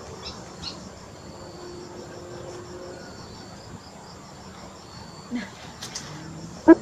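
Faint high insect trilling, like crickets, over low background noise. There are a few faint short sounds about five to six seconds in.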